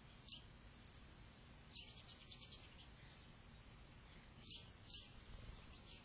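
Faint, short bird chirps: one near the start, a quick run of chirps about two seconds in, and two more at about four and a half and five seconds.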